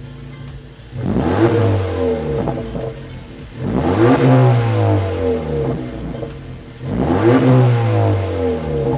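An engine idling and revved three times, each rev rising quickly in pitch and falling back to idle.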